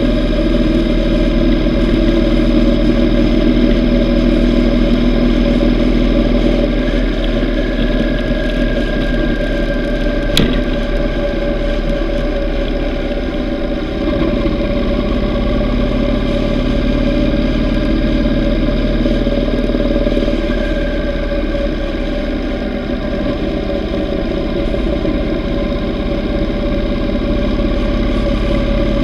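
Yamaha V Star 950's air-cooled V-twin engine running steadily at cruising speed, its pitch drifting gently with the throttle. A single sharp click about ten seconds in.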